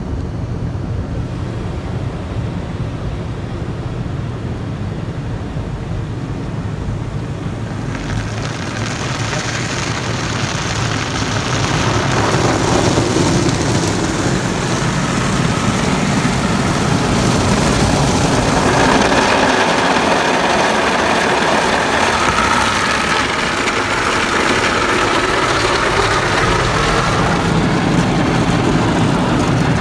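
Tunnel car wash heard from inside the car's cabin: a steady low rumble, then about eight seconds in the water spray and spinning cloth brushes start working over the car, a loud rushing, slapping wash noise that swells a few seconds later and keeps on.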